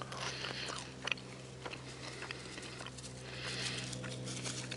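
A person chewing a bite of crunchy, buttery grilled cheese sandwich with toasted bread, in soft crunching spells near the start and again from about three seconds in. A steady low hum runs underneath.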